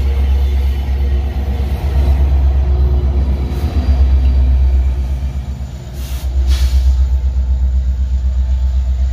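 Heavy freight train rolling past: loaded ore wagons and a diesel-electric locomotive go by close up, with a deep, continuous rumble and a steady engine hum. It dips briefly, and a couple of sharp knocks come about six seconds in.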